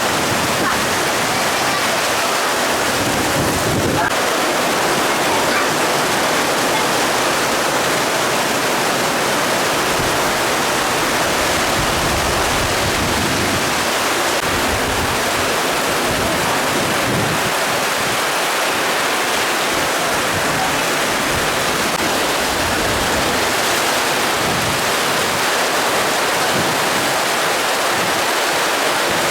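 Heavy rainstorm: dense, steady rain hiss, with gusts of wind rumbling on the microphone.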